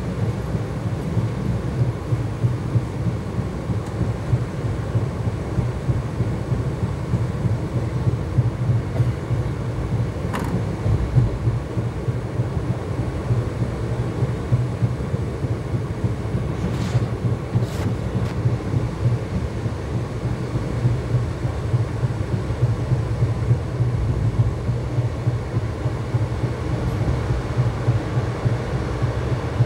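ICF passenger coach running along the track: a steady low rumble of wheels on rails, with a few faint clicks.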